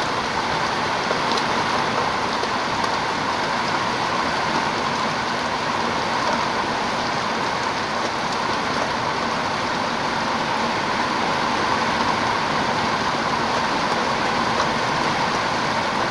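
Rain falling steadily in a downpour.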